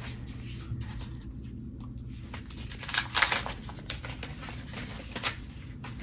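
A new tablet and its packaging being handled: scattered light rustles, taps and clicks, with louder clicks about three seconds in and again near five seconds.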